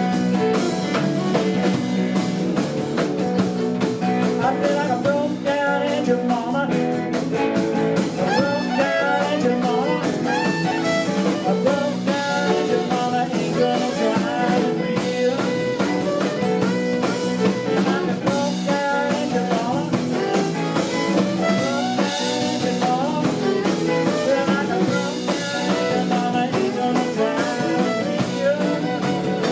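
Live blues band playing an instrumental break: guitar and drums with violin, the lead line full of quick sliding notes.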